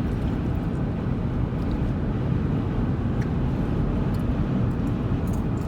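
Car driving on a highway: steady low tyre and engine rumble.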